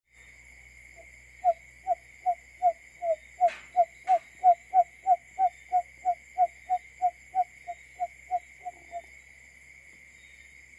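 Barred buttonquail call, played as a decoy recording: a series of short, low hoots, about three a second, building up and then tailing off softer before stopping about nine seconds in. A steady high whine runs behind it, and two sharp clicks come midway.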